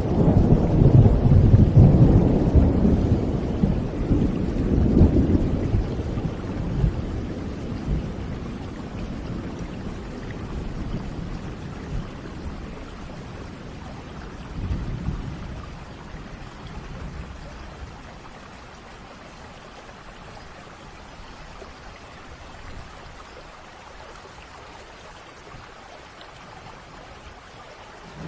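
Thunder rumbling loudly at the start and dying away over about fifteen seconds, with a smaller rumble about halfway through, over a steady hiss of rain.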